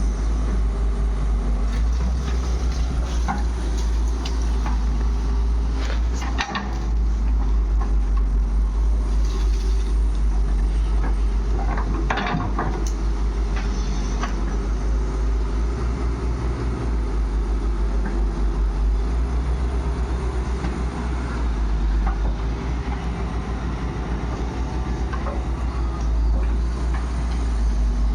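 Heavy diesel engine of the earthmoving machinery running steadily with a deep low throb. A few short knocks and clatters come about six and twelve seconds in.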